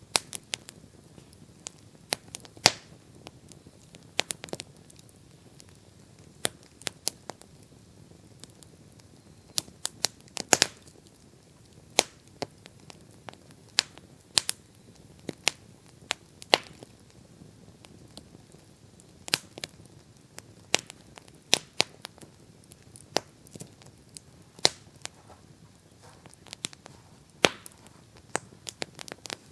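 Campfire crackling: irregular sharp pops and snaps, a few much louder than the rest, over a faint steady hiss.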